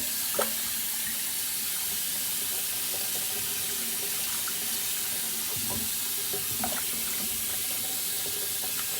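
Cold tap water running steadily into a sink while a raw turkey is rinsed, with a few faint knocks from handling.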